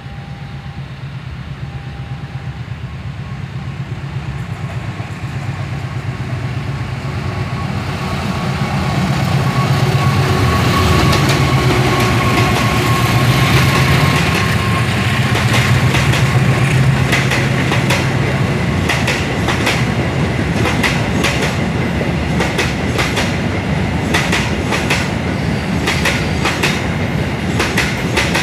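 CC 206 diesel locomotive hauling a long passenger train, its engine drone growing louder as it approaches and passes. About two-thirds of the way in the carriages take over, with a steady clickety-clack of wheels over the rail joints.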